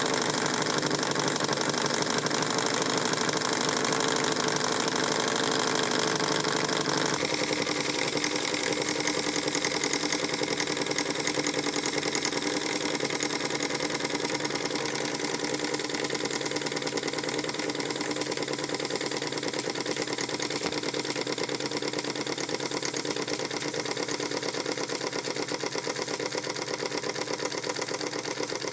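Vintage Krick model marine steam engine running steadily with a fast, even mechanical beat. Its tone changes abruptly about seven seconds in.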